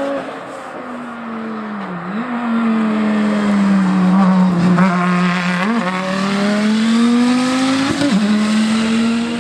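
A rally car's engine running at fairly steady revs, with three short throttle blips. Its sound and a rushing noise grow louder in the middle, then ease off.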